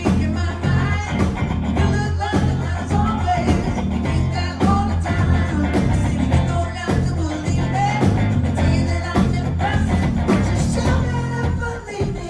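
Live band playing a pop-rock song: a male voice sings over a steady bass line, drums and guitar.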